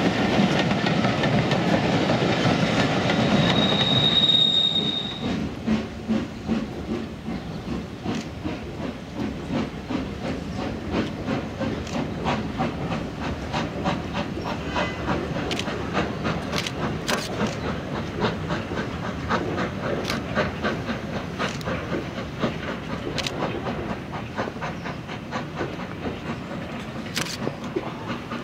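Steam-hauled train running on the line, its wheels clattering over the rail joints. It is loud for the first five seconds, with a short high-pitched squeal about four seconds in, then settles to a quieter, steady clatter of sharp clicks.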